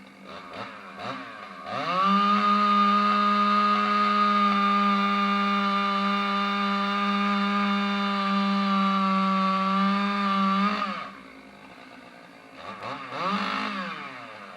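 Two-stroke chainsaw blipped a couple of times, then held at full throttle with a high, steady note for about nine seconds. It drops back to idle, then gets one more short rev near the end.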